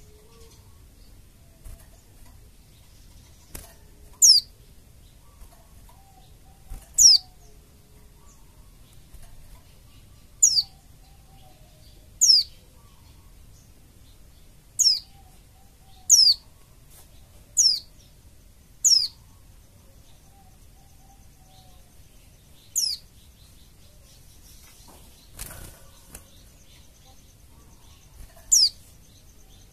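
White-eye (pleci) giving a series of short, high, downslurred call notes, one every one to three seconds. Fainter, lower whistles sound between them, and there is a brief rustle about three quarters of the way through.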